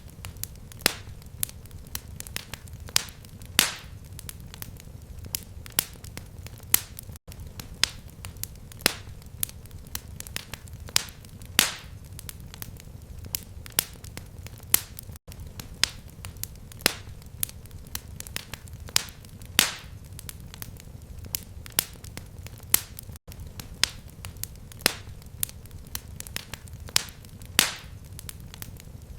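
Fireplace crackling: irregular sharp snaps and pops, several a second, a few louder with a short hiss after them, over a steady low rumble. The same pattern repeats about every eight seconds, with a momentary gap at each repeat, as in a looped recording.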